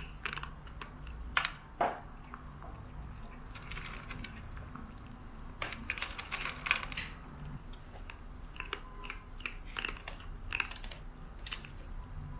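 A Norwegian Forest cat chewing, with irregular crunches and sharp clicks.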